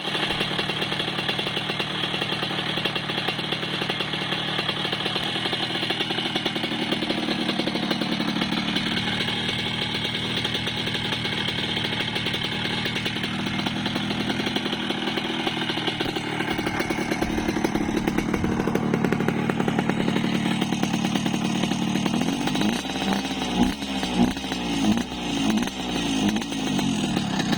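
CZ 125 (type 516) motorcycle's two-stroke engine running steadily, then revved in several short throttle blips in the last few seconds.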